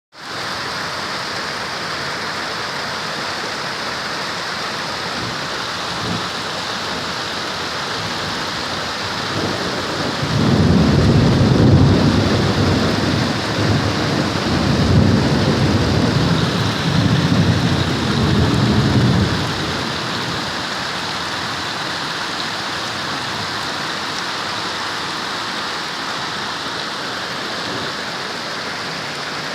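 Heavy rain falling steadily, with a long rolling rumble of thunder from about ten seconds in that swells several times and dies away after about nine seconds.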